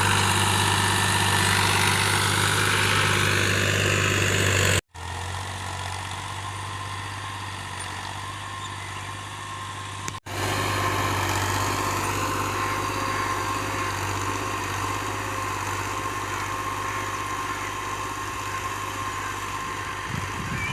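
Tractor engine running steadily, heard in three stretches split by abrupt cuts about five and ten seconds in, loudest in the first stretch.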